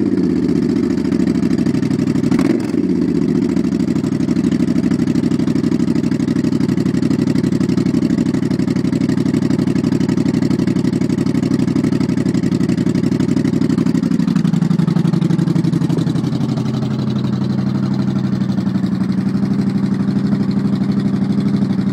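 Suzuki Intruder V-twin motorcycle engine running at a steady idle through a modified exhaust. It gives a short sharp crack about two and a half seconds in, and rises briefly about two-thirds of the way through before settling back to a slightly quieter, lower idle.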